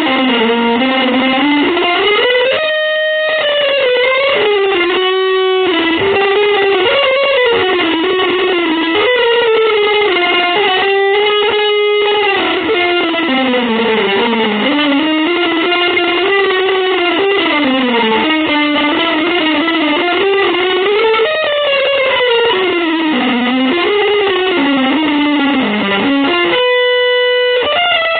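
Electric guitar played through effects, improvising one unbroken melodic line that slides and bends up and down in pitch, with a few short held chords along the way.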